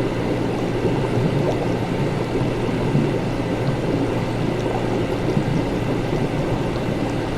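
Laboratory ambience: liquid bubbling and gurgling continuously over a steady low machine hum.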